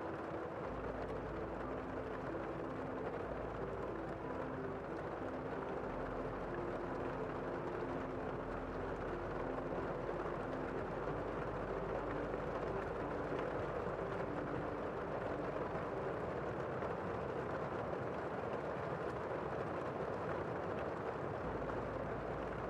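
Steady rain falling, an even, unbroken hiss, with faint low held tones drifting underneath.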